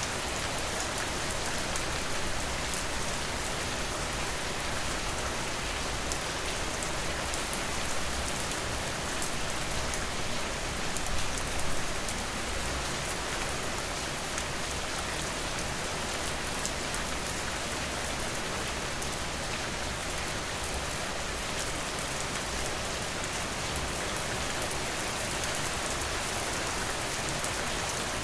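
Steady rain falling on surfaces, an even hiss with many scattered sharp drop ticks. It swells briefly a little before halfway through.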